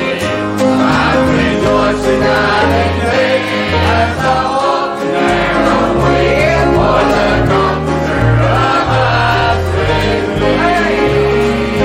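Congregation or choir singing a gospel hymn with instrumental accompaniment and a moving bass line.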